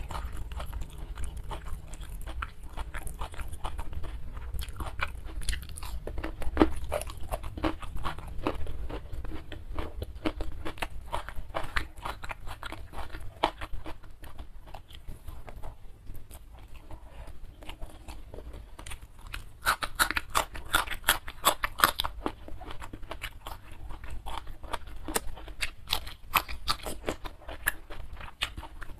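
Close-miked chewing and wet mouth sounds of a person eating rice and spicy crushed fried chicken wing by hand: a steady run of small crunches and clicks, with a denser flurry of crunching about two-thirds of the way through.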